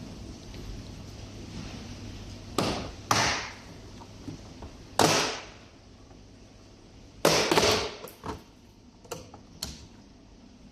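A run of knocks and clatters of parts being handled during dishwasher door removal, over a low steady hum. The loudest come about two and a half, three, five and seven seconds in, with a few lighter taps after them.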